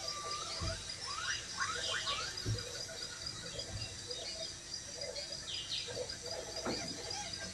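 Small birds chirping in the background: short, irregular rising and falling calls, with two brief low thumps in the first few seconds.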